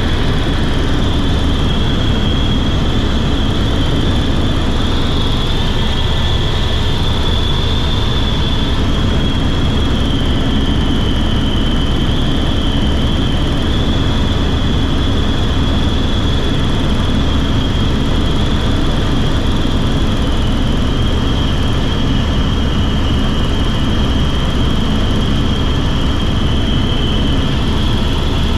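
Helicopter in flight: a loud, steady rush of engine and rotor noise with a high whine that wavers slightly in pitch.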